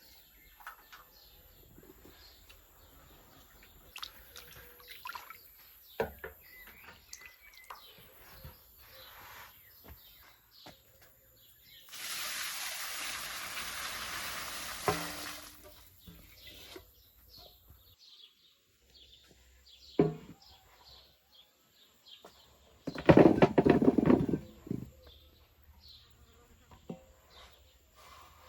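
Water running or being poured for a few seconds, then a louder splashing pour a few seconds before the end, among small knocks and clinks of handling. Birds chirp in the background.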